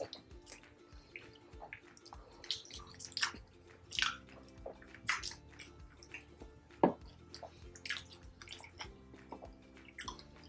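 Wet chewing and lip smacks of people eating with their hands, in short scattered bursts, over faint background music. One sharp click comes a little past the middle.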